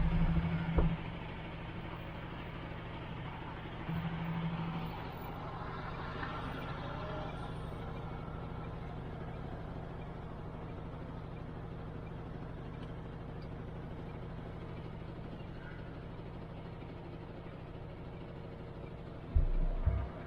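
MAN TGX truck driving, its diesel engine and road noise running steadily, with brief louder low rumbles about a second in, around four seconds in, and near the end.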